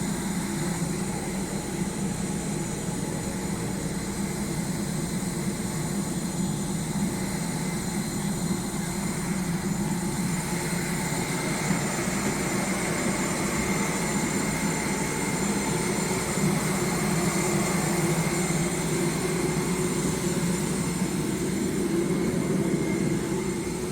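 Steady airliner cabin noise: a low hum with thin, high steady whines, rising slightly in level over the second half.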